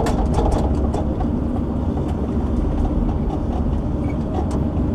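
Diesel engine and hydraulics of a logging shovel running steadily under load while it lifts a heavy tree, with scattered knocks and clanks.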